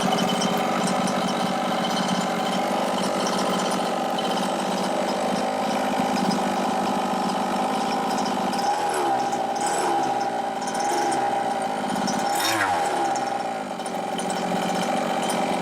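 Chung Yang 29cc two-stroke engine of a 1/5-scale Losi 5ive T RC truck running steadily during break-in, tuned rich. Its pitch wavers briefly twice past the middle.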